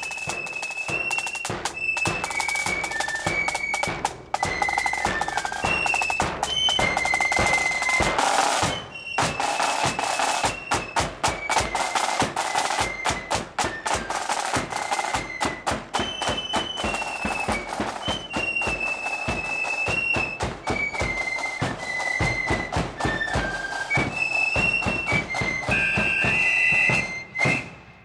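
Marching flute band playing a tune: a high flute melody over rapid snare drumming and bass drum, stopping sharply near the end.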